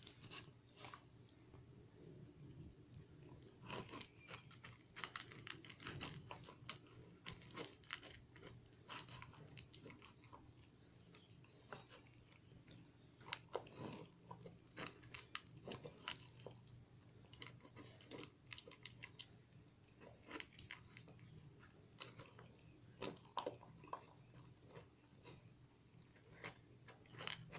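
Eight-week-old Great Pyrenees puppy chewing food from its bowl: faint, irregular sharp clicks coming in clusters.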